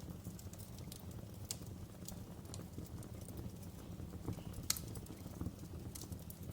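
Wood fire crackling in a fireplace: scattered sharp pops and snaps over a low, steady rumble, with one louder pop just under five seconds in.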